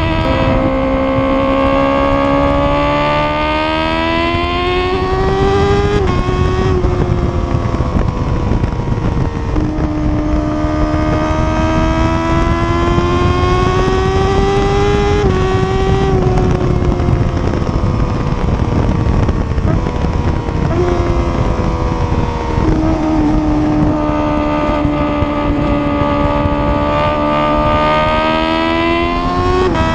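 Honda CBR1000RR-R SP's inline-four engine pulling through the gears, its pitch climbing steadily for several seconds and then dropping sharply at each upshift, several times over.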